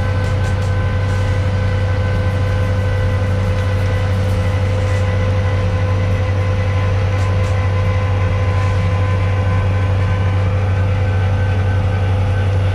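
Tractor engine running steadily under load, driving a snowblower whose auger is chewing through deep snow.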